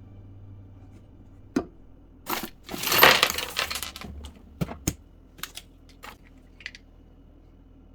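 Small household items being handled and set down: scattered clicks and knocks, with a longer crinkling rustle, like plastic packaging, about three seconds in that is the loudest sound.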